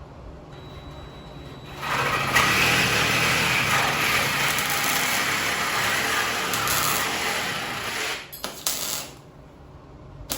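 Welder running a bead on steel for about six seconds, a steady noisy buzz, then two short bursts like tack welds near the end.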